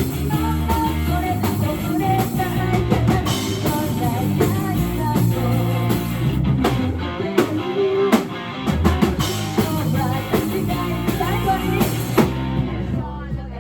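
Live rock band playing: drum kit, electric guitar and a singing voice, thinning out near the end.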